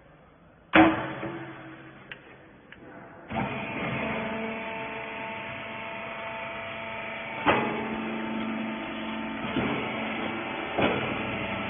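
Horizontal wiper baler: a loud metallic clank about a second in, then from about three seconds its motor runs with a steady hum, with three more sharp clanks in the second half.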